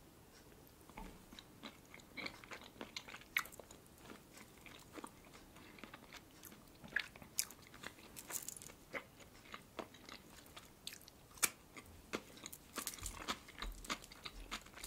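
Close-miked chewing of a bite topped with red caviar: soft, wet mouth clicks and small crunches scattered irregularly throughout.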